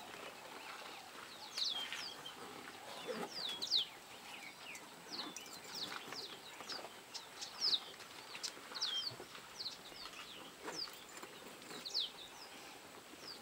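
Small birds chirping busily, many short high calls that sweep downward in pitch, over a faint steady background.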